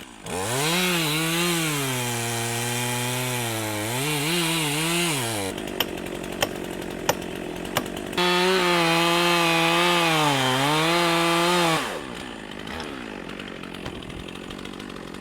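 Chainsaw running in two cuts, its pitch dipping and rising as the chain loads and frees in the wood. In the pause between the cuts there are a few sharp clicks.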